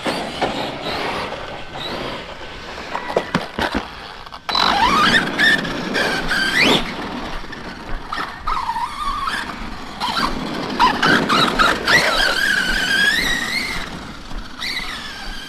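Electric RC stunt truck's brushless motor whining, its pitch rising and falling several times with the throttle, with a few sharp knocks in the first seconds.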